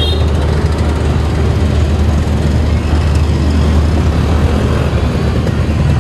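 Passenger train coaches rolling slowly past on the rails with a steady rumble, under a low hum that fades about halfway through. A short high beep sounds right at the start.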